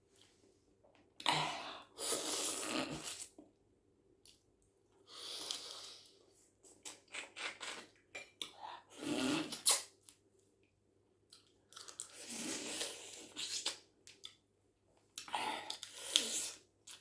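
Close-miked chewing of a mouthful of spaghetti with shrimp and vegetables, in about five bouts of a second or more each with short pauses between.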